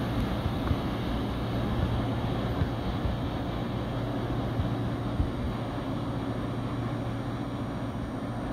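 Low, steady rumble of a New York & Atlantic Railway freight train moving away, slowly fading, with a few faint clicks.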